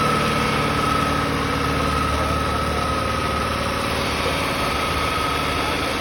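Antique tractor engine running steadily, with a thin steady whine above the engine sound.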